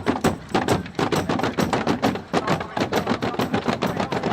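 Rapid sharp bangs, about five or six a second, with no let-up.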